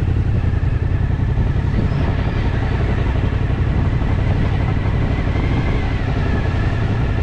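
Suzuki 1000cc motorcycle engine running with a steady low note while riding slowly.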